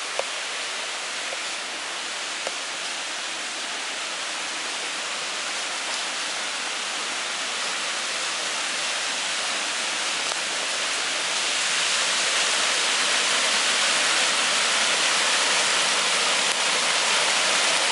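Rushing water of a small creek waterfall, a steady hiss that grows louder about two-thirds of the way through.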